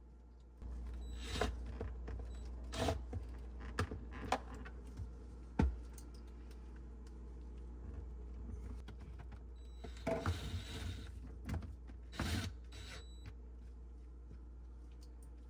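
Scattered clicks, taps and short rustles of objects being handled, over a steady low hum that comes up about half a second in.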